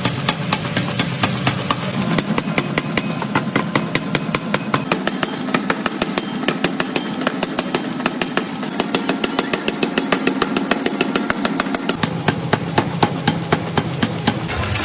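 Factory machinery running: a steady motor hum under rapid, even metallic knocking, about six strikes a second.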